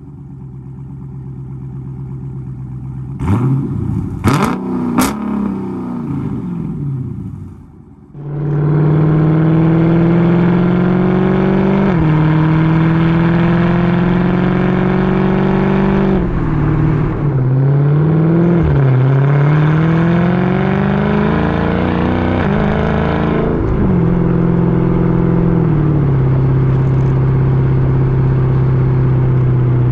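Straight-piped Dodge Charger SRT 392's 6.4-litre HEMI V8 exhaust, mid-mufflers and resonators deleted, running lower at first with a few sharp knocks. About eight seconds in it opens up loud under hard acceleration, climbing in pitch through three gears with a drop at each upshift, then settles to a steady cruise near the end.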